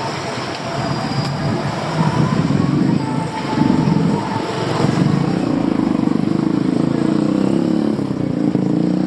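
Busy city street traffic: a steady, loud low rumble of passing motor vehicles, swelling a little about two seconds in.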